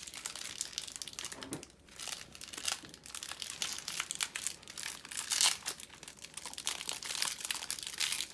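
A foil Pokémon booster pack being handled and torn open, the wrapper crinkling in irregular bursts.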